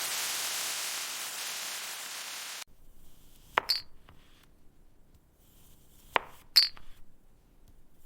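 A steady hiss that cuts off abruptly, followed by two pairs of bright glassy clinks a few seconds apart, each ringing briefly: glass pieces tapping together.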